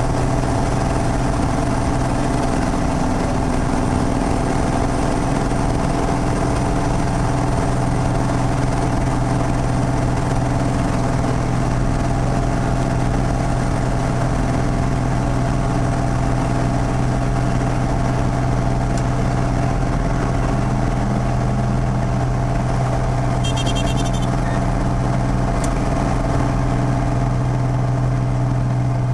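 Piper PA-32's single piston engine and propeller running at a steady drone. Late on, a brief run of faint high ticks sounds over it.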